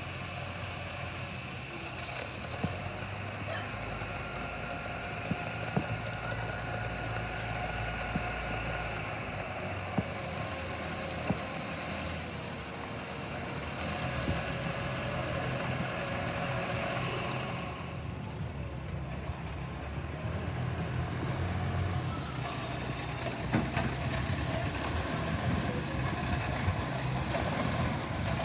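Miniature-gauge railway locomotive running slowly or standing with a steady low mechanical note, broken by sharp knocks and clanks every few seconds, as a train is shunted.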